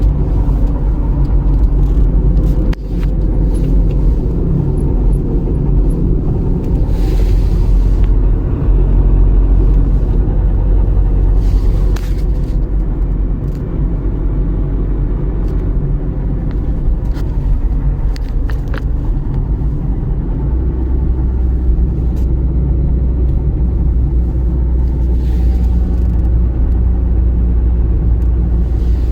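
Skoda Fabia Mk1 SDI's naturally aspirated 1.9 diesel running with a steady low rumble, with a few faint clicks and a change in the deep drone about two-thirds of the way through. The owner hears a strange sound in it that he cannot identify.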